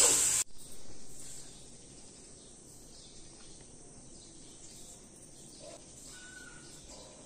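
Spatula stirring sprouted green moong as it sizzles and fries in a metal pot on high heat, cut off suddenly about half a second in. After that comes a faint steady background hiss with a few faint bird chirps.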